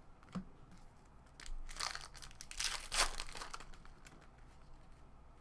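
Foil trading-card pack wrapper crinkling as it is torn open and handled, in a stretch of crackling from about a second and a half in to near the end, loudest about three seconds in, after a small tick near the start.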